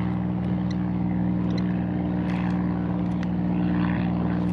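A boat engine running at a steady hum, with faint short high bird calls over it.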